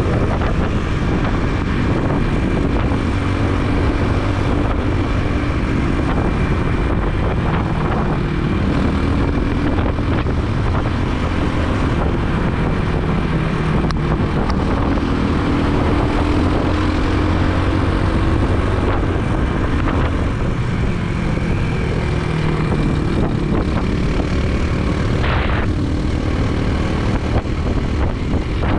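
Motorbike engine running under way, its pitch drifting up and down with speed, under steady wind rush on a helmet-mounted camera's microphone.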